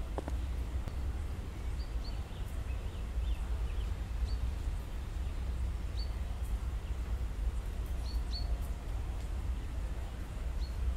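Outdoor ambience: a steady low rumble with a small bird giving short, high chirps every second or two, sometimes two in quick succession.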